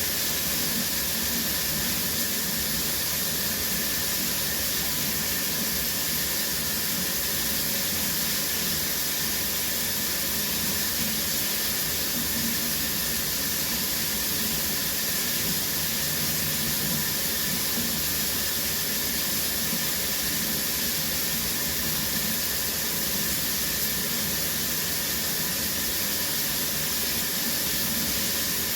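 Shower running steadily: an even, constant hiss of spraying water.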